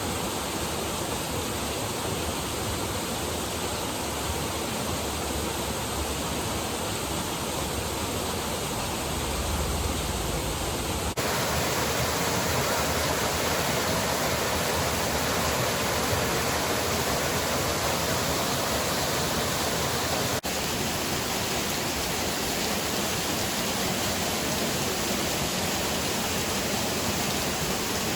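Waterfall rushing: a steady hiss of falling water on a creek. It gets suddenly louder and fuller about a third of the way in and shifts again about two-thirds of the way in.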